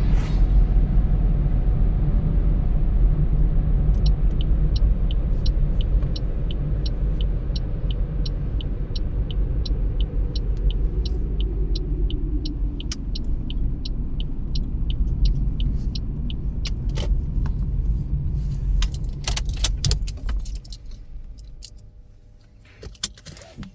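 Car interior: steady engine and road rumble, with the turn-signal indicator ticking evenly about two and a half times a second for several seconds. Near the end come a few clicks and knocks, and the engine rumble dies away, leaving a last single click.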